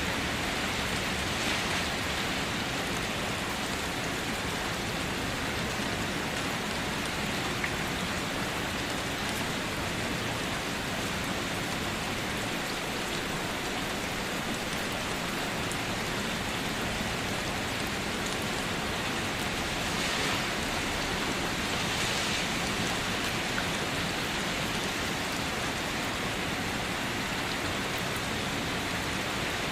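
Steady rainfall: an even hiss of many drops, with a couple of slight swells about two-thirds of the way through.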